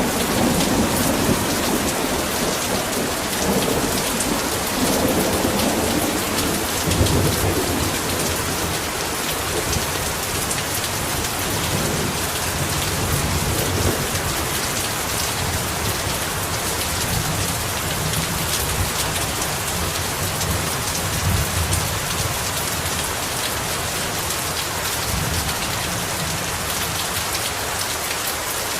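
Heavy rain pouring steadily, with thunder rumbling under it: a rolling rumble in the first several seconds, then a deeper, lower rumble through most of the rest that fades near the end.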